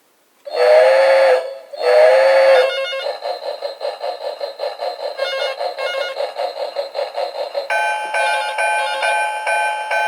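Novelty steam-train telephone ringing with its recorded steam-locomotive ring: two whistle toots, then a fast, even chugging rhythm. About three-quarters in, brighter ringing tones join the chugging.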